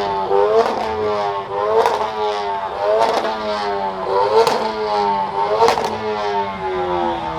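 Car engine being revved over and over, about once every second and a quarter: each rev climbs quickly and falls back slowly, with a sharp crack near the top of each rev.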